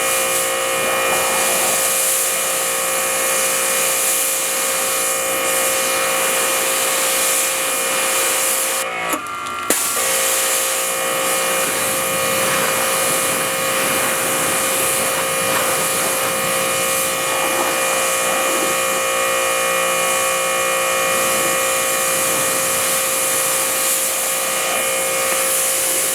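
Electric air blower running steadily to dry a car, a high motor whine over a rush of air; it drops out briefly about nine seconds in.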